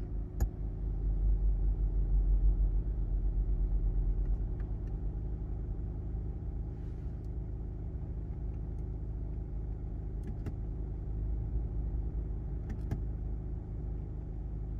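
A BMW's engine idling, heard from inside the cabin: a steady low hum, a little louder and uneven for the first few seconds, with a few faint clicks.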